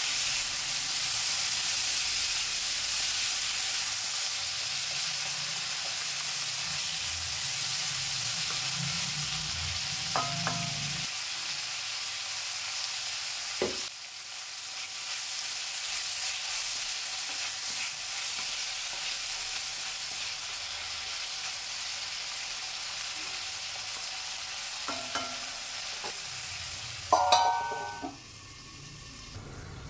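Chopped radish, tomatoes, shallots and green chillies sizzling in oil in a cast-iron kadai, stirred and scraped with a wooden spatula. Near the end a steel lid is set on the pan with a ringing clink, and the sizzle turns muffled under it.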